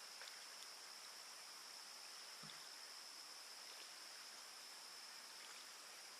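Faint, quiet ambience dominated by a steady high-pitched drone of crickets, with a faint low knock about two and a half seconds in.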